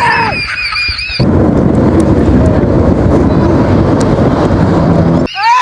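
Airplane departing close by: a loud, steady, heavy roar from about a second in that cuts off sharply near the end.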